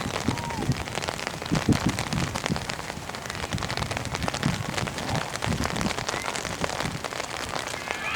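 Rain falling, with a dense, irregular patter of raindrops ticking close to the microphone.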